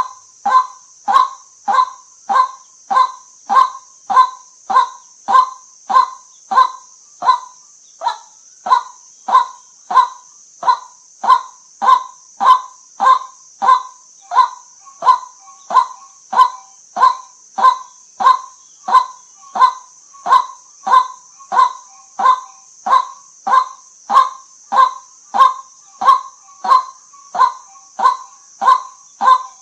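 White-breasted waterhen repeating its short, monotonous call note over and over, about three notes every two seconds at an even pace, over a steady high hiss.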